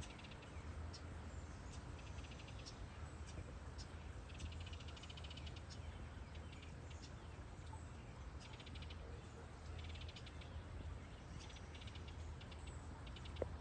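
Baby birds in a nest box chirping faintly in several short bursts of rapid, high chirps a few seconds apart, over a steady low background hum.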